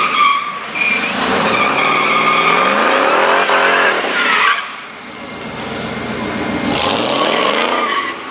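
Drag-racing cars' V8 engines revving hard with tyres screeching under wheelspin. The engine note climbs, falls away about four and a half seconds in, then climbs again with more squeal near the end.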